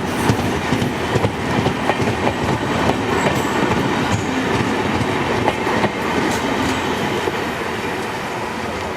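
A train hauled by a G22 diesel locomotive pulls out of a station and rolls past, its wheels clattering with frequent clicks over the rail joints. The sound slowly fades near the end.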